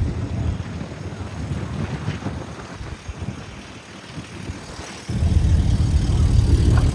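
Car engines rumbling at a car meet. The low rumble dies away over the first few seconds, then returns suddenly and loud about five seconds in.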